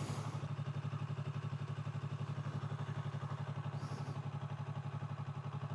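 Sport motorcycle engine idling steadily, with a fast, even pulse.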